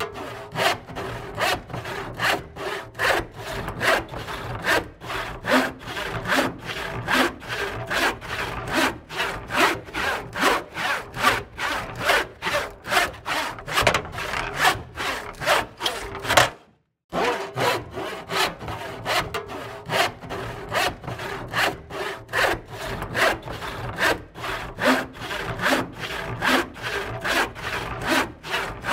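Hand saw cutting through wood in steady back-and-forth strokes, about two strokes a second. The sound cuts out completely for a fraction of a second a little past halfway, then the strokes carry on.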